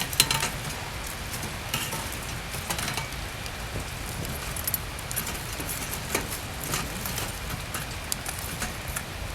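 Steady rain with scattered light clicks and knocks of small items being handled and set down. The sharpest knocks come just after the start.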